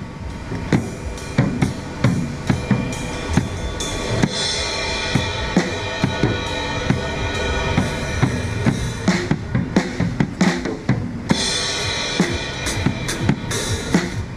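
Drummer playing a drum kit: a busy, steady beat of bass drum and snare, with cymbals washing through the middle and again near the end.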